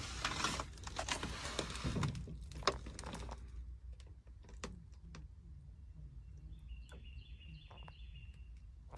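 Faint scattered clicks and rustles of handling, then a small bird chirping a quick series of short notes near the end, over a steady low background hum.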